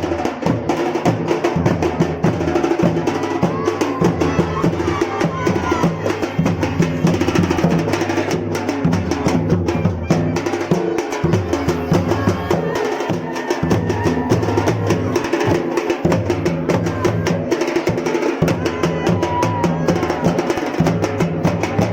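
Drums beaten in a fast, continuous rolling rhythm.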